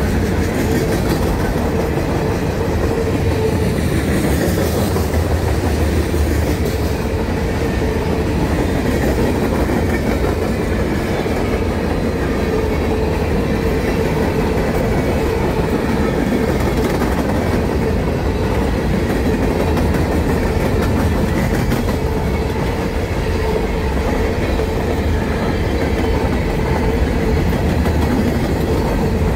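Freight cars of a CSX train rolling steadily past: a loud, even rumble with a steady hum running through it.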